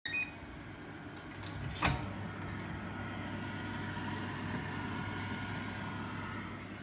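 A few short electronic beeps, then a sharp click a little under two seconds in, followed by an electrical appliance's steady hum.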